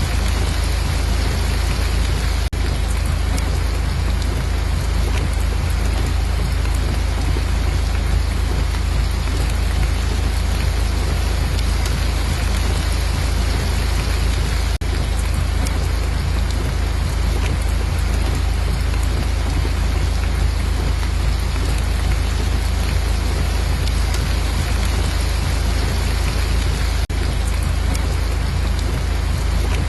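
Steady heavy rain with a deep low rumble underneath, even throughout, with a brief dip in level about every twelve seconds.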